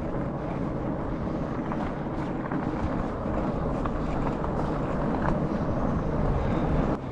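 Steady low rumble of a fat bike on the move: its wide tyres rolling over the ground, mixed with wind on the microphone. It grows a little louder, then drops off suddenly near the end.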